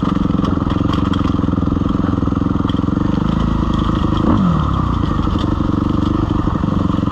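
Suzuki RM-Z250 four-stroke single-cylinder dirt bike engine running steadily on a rocky descent, with light clattering over the top and a brief falling sweep in pitch a little past the middle.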